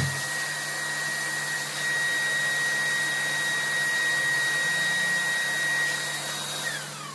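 Vacuum cleaner motor running with a steady high whine, then switched off near the end, the whine falling as the motor winds down.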